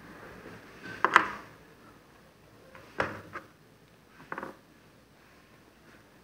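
Handling noises: a few separate sharp clicks and knocks, the loudest about a second in, then more near three seconds and around four and a half seconds.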